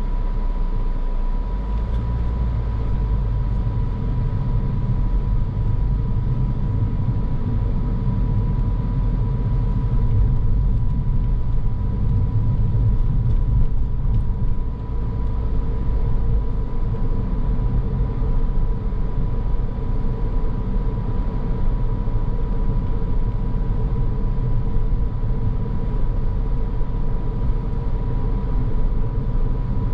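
Car on the move: a steady low rumble of engine and tyres on the road, with a thin, steady high tone running through it.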